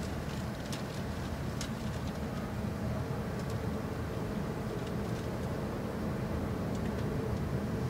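Steady running noise of an E6-series shinkansen heard inside the passenger car: a low rumble with a faint steady hum, and a few light clicks in the first couple of seconds.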